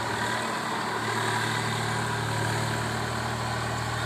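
Swaraj 744 FE tractor's three-cylinder diesel engine running steadily under load while it drives a rotavator through wet mud, with a brief dip in its low hum in the first second.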